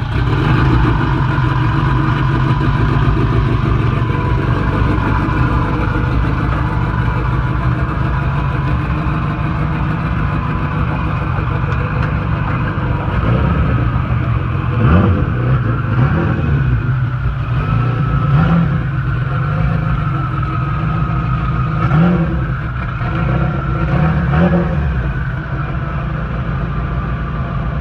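Turbocharged Honda LS/VTEC four-cylinder engine running steadily, with several short rises in revs about halfway through and toward the end.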